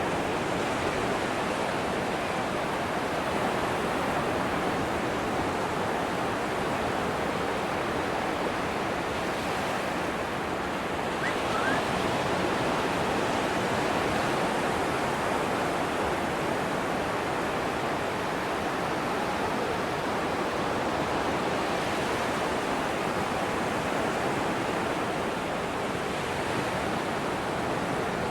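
Atlantic ocean surf washing steadily onto a sandy beach, an even rushing wash that swells slightly as a wave breaks about eleven seconds in.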